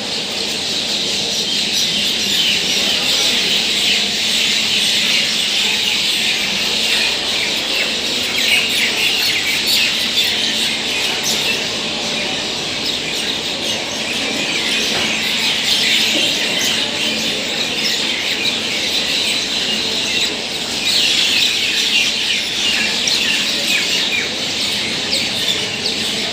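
A large flock of small birds chirping all at once: a dense, continuous chatter of overlapping high chirps.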